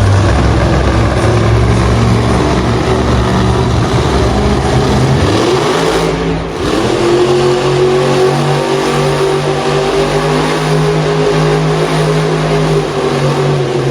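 Tiger Shark monster truck's engine running loud under throttle. The revs climb about halfway through, drop briefly, then hold steady and high.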